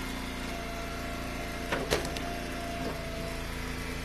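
Eastonmade Ultra wood splitter's engine running steadily, with a single sharp knock about two seconds in.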